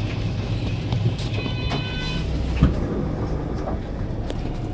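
Isuzu Erga city bus's six-cylinder diesel engine running with a steady low drone, heard from inside the passenger cabin. A brief high-pitched tone sounds a little over a second in, and a short thump comes about two and a half seconds in.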